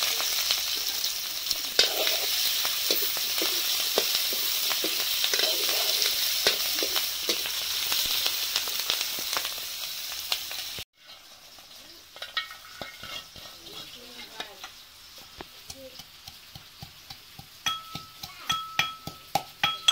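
Sliced onion, garlic and chilies sizzling in hot oil in a metal wok, with occasional stirring clinks; the sizzle cuts off suddenly about halfway through. Then a pestle taps and pounds in a small metal mortar, the strikes growing louder and ringing metallically near the end.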